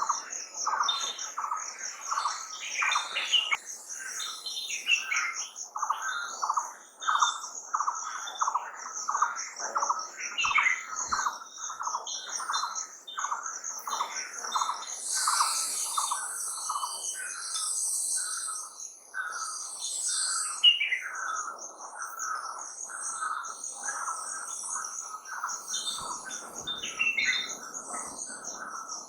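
Several birds chirping and calling, with short chirps repeating about twice a second, over a continuous fast high-pitched pulsing trill.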